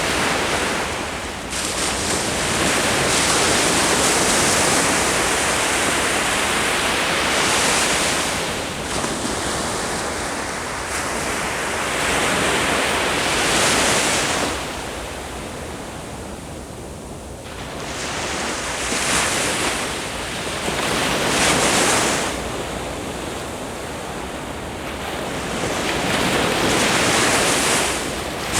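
Ocean surf breaking on a shore: a steady wash of waves that swells and ebbs, with several louder surges a few seconds apart and a quieter lull near the middle.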